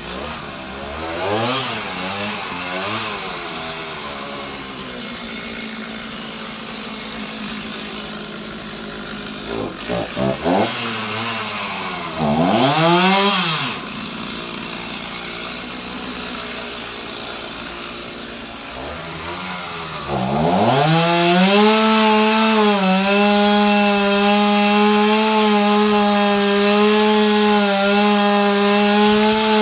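Chainsaw idling and revved up and down several times, with short blips around ten seconds in and a bigger rev a little later. From about two-thirds through it is held at a steady high pitch at full throttle, cutting into the wood.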